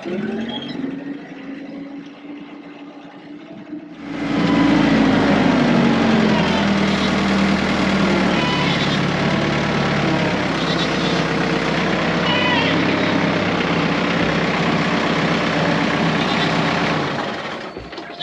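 TYM compact diesel tractor engine running. It is moderate for the first few seconds, then gets much louder about four seconds in, with the engine note dipping and then holding steady, and it fades near the end.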